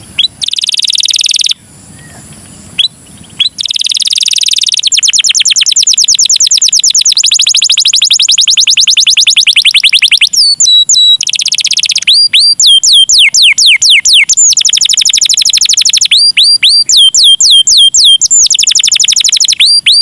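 Canary singing a long, varied song: a fast trill of rapidly repeated high notes, then groups of quick whistled notes that each sweep downward in pitch.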